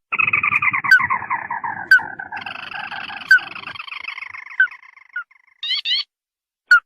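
Crake (burung tikusan) calls played as a hunting lure: a long chattering trill that falls in pitch over about four seconds, punctuated by sharp single notes. Near the end comes a short burst of quick rising notes.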